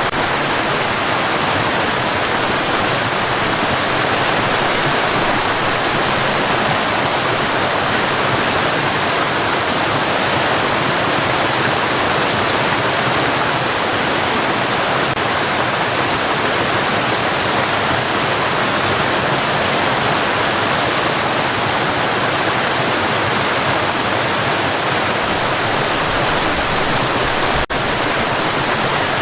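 Steady white noise: an even, unbroken hiss that dips for a split second near the end.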